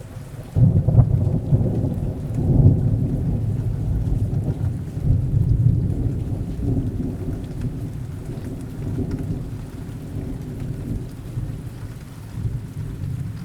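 Rain falling, with a long roll of thunder that breaks in about half a second in, peaks over the next couple of seconds and slowly rumbles away.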